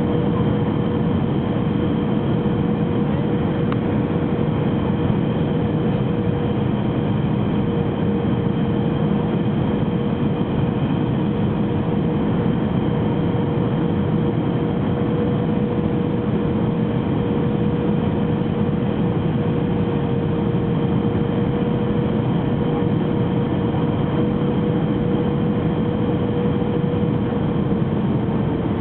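Airbus A319 on its landing approach: a steady rush of jet engine and air noise with a constant humming tone, which drops slightly in pitch near the end.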